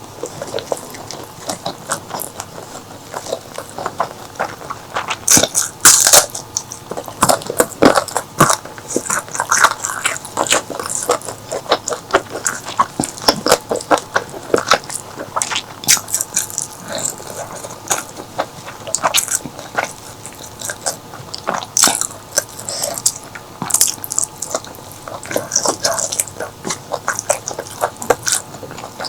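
Close-miked mukbang eating sounds: irregular wet chewing, smacking and biting of an Indian curry meal.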